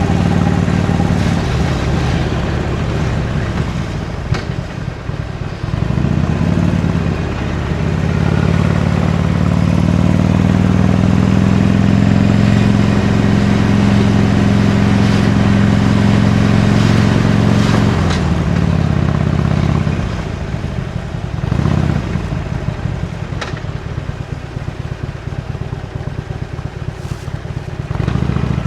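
Harley-Davidson Iron 883's air-cooled 883 cc V-twin on its stock exhaust, heard from the saddle under way. The engine eases off briefly, then pulls strongly and steadily for about twelve seconds. Near twenty seconds in it backs off to a lower, rougher note, then picks up again at the very end.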